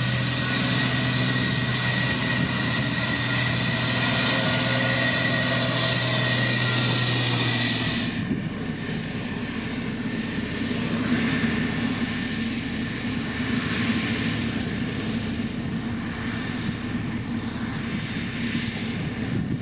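Heavy diesel road-building machinery running: a steady engine drone with a strong low hum. About eight seconds in it changes abruptly to a duller, slightly quieter engine sound.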